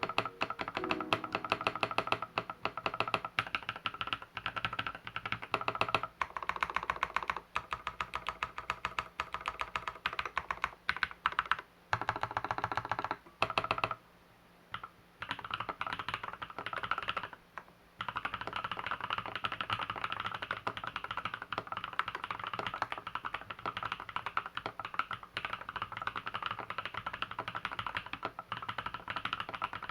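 Continuous fast typing on an LZ B7 custom keyboard: a dense run of key clacks, with two short pauses a little past halfway.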